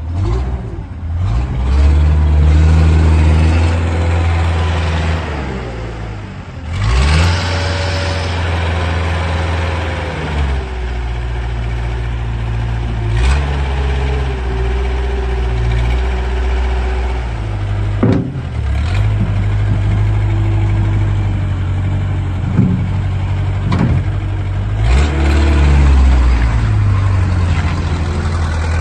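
Terex TSR-50 skid steer's engine running and being revved up and down, its pitch dropping briefly a few times. A higher whine comes and goes over it, and there are a few sharp knocks.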